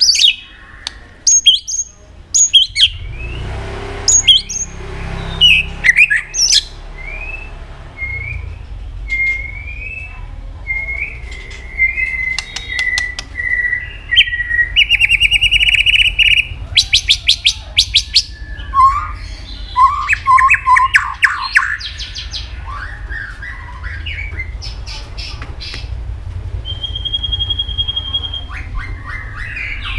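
White-rumped shama singing a long, varied song: sharp clicking notes, a run of short rising whistles, fast rattling trills and a held high whistle near the end.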